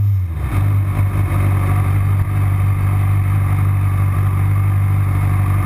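MV Agusta F4's inline-four engine heard from the rider's seat, its falling overrun note dropping to a steady idle about a third of a second in. It then idles on as the bike coasts down to walking pace.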